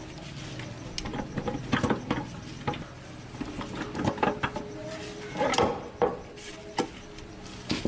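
Irregular knocks, clicks and rubbing of parts and tools being handled during gearbox repair work, over a steady low hum.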